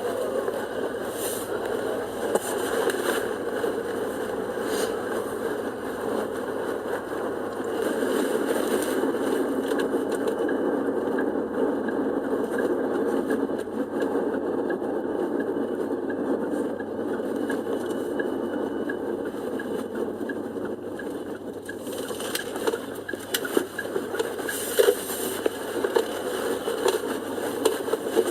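Steady engine and road noise of a moving car heard from inside the cabin, with a few clicks and knocks near the end.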